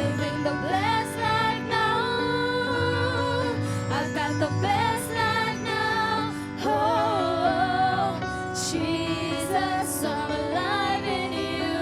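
Live worship music: a band playing, with a voice singing a gliding melody over it.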